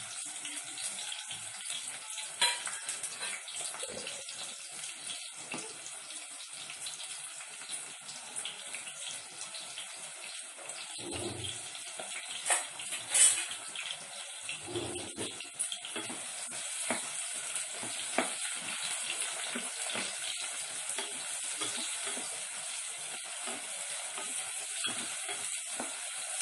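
Onions sizzling as they fry in hot oil and ghee in a pan, a steady hiss, with a few sharp metal clinks; the loudest comes about halfway through.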